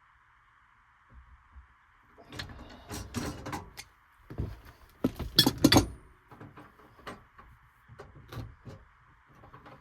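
Handling noises: a run of irregular knocks, clicks and rattles, loudest about five to six seconds in, then a few scattered single clicks, over a faint steady hiss.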